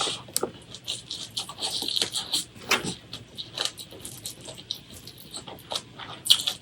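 Close-miked eating sounds: chewing with quick irregular wet smacks and clicks of the mouth, with a slightly louder cluster near the end.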